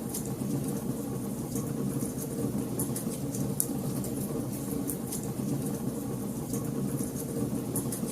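Wood fire burning in a fireplace: scattered sharp crackles and pops at irregular intervals over a steady low rumble of the flames.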